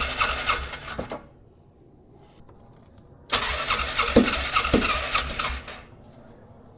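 Polaris Ranger engine cranked over by its starter on carb cleaner, twice, without catching: the first crank stops about a second in, the second starts a little past the middle and lasts about two seconds. It turns over but does not fire, with weak, inconsistent spark.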